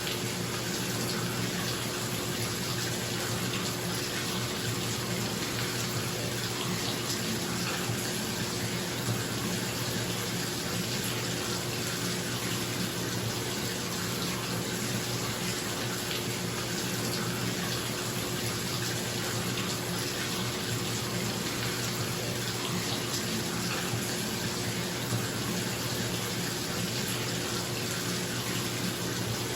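Bathtub faucet running steadily into a filling tub, with a bathroom exhaust fan humming underneath.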